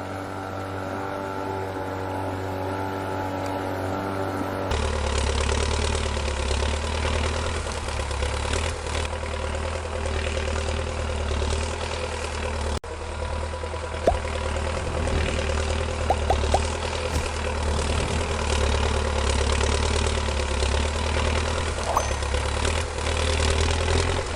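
Engine running sound of an RC model tractor, steady like an idle. About five seconds in it gets louder and deeper and then keeps running steadily, with a few short clicks later on.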